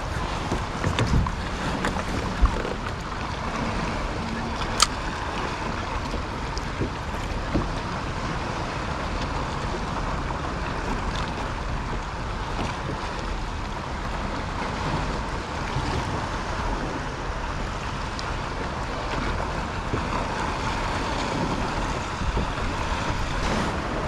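Sea water washing against a kayak's hull, with wind on the microphone and a few sharp knocks in the first five seconds.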